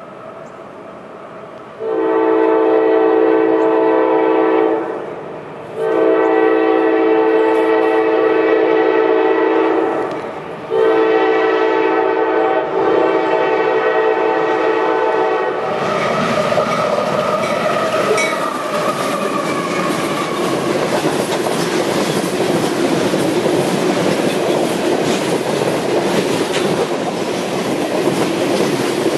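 Diesel freight locomotive's air horn sounding four chord blasts at a grade crossing, two long, a shorter one and a final long one: the standard crossing warning. The locomotive then passes, and the loaded refrigerated boxcars roll by with loud, steady wheel-on-rail noise and clickety-clack.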